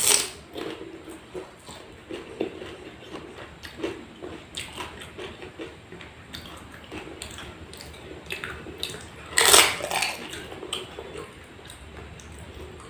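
Close-up eating sounds: biting and chewing food, with irregular small clicks and wet mouth sounds, a sharp loud bite at the start and the loudest, longer crunch about nine and a half seconds in.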